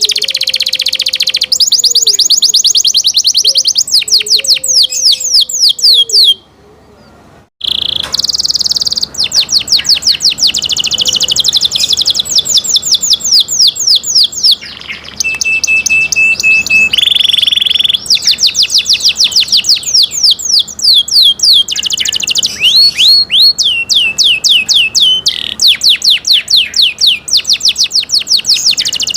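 Canary singing: rapid trills of repeated downward-sweeping notes, switching to a new trill every second or two. There is a short break about six seconds in, and a held steady note followed by a buzzy phrase about halfway through.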